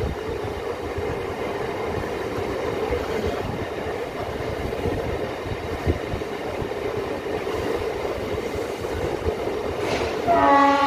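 Passenger train running, heard from on board: a steady rumble and rattle of the carriage on the rails. Near the end a loud, steady tone of several notes comes in.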